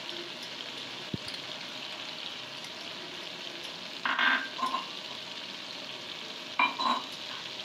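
Onion-tomato masala with spice powder just added sizzling steadily in hot oil in a kadai. Two short, louder noises break in about four and six and a half seconds in.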